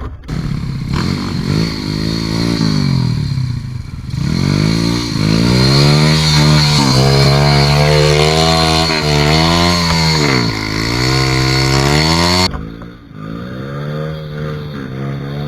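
Dirt bike engine revving hard, its pitch rising and falling again and again as the throttle is worked. About twelve and a half seconds in the sound changes abruptly to a quieter, steadier engine note.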